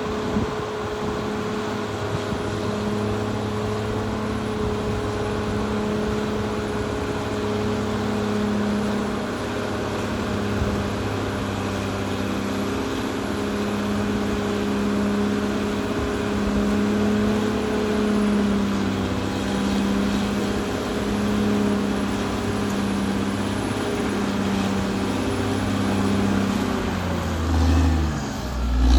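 Caterpillar D6R XL bulldozer's diesel engine running steadily under load, with a hum that wavers about once a second. The engine pitch shifts near the end.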